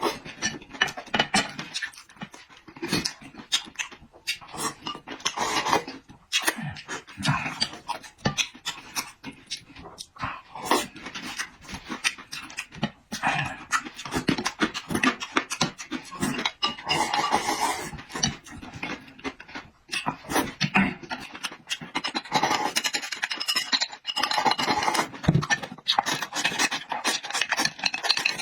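Close-miked eating: wet chewing, lip smacking and breathing through food, in a dense run of irregular little clicks and smacks.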